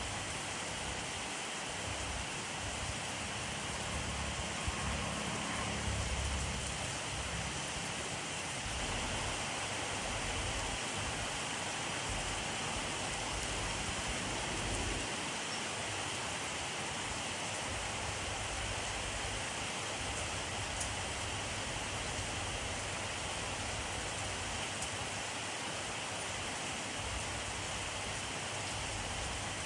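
Steady rainfall, an even hiss of rain falling on surfaces, with a soft low rumble swelling briefly a few seconds in.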